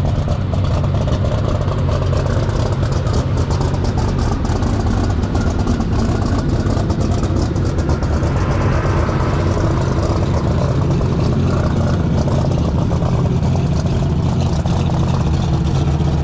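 Large turbocharged diesel engine of a superstock pulling tractor running loud and steady at an even pitch.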